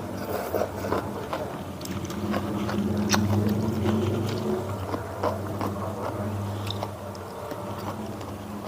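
Close-miked chewing and biting, with wet mouth clicks, over a steady low hum.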